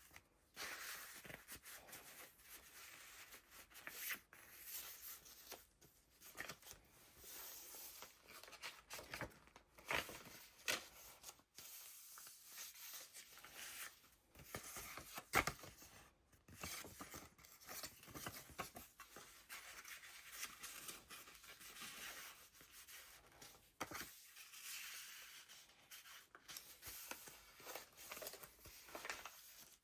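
Paper pages of a handmade junk journal being turned and handled: faint, irregular rustling and crinkling of layered paper, with a few sharp flicks as pages flip over.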